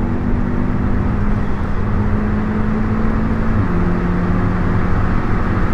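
In-cabin engine and road noise of a stage 1 remapped Audi S3 8V's turbocharged 2.0-litre four-cylinder under way, a steady drone that drops in pitch once about three and a half seconds in, as at a DSG upshift.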